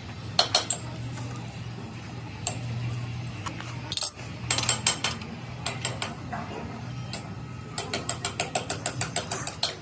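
Metal clicking and clanking from hand tools on truck-frame steel. The hits come irregularly, then in a quick run of about four or five a second near the end, over a steady low hum.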